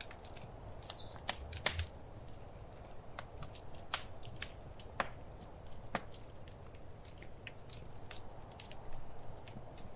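Wood fire crackling in a fireplace: irregular sharp pops and snaps, a few louder ones, over a soft steady hiss and low rumble.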